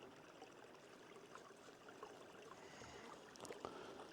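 A small, low stream trickling faintly, with a few soft clicks about three and a half seconds in.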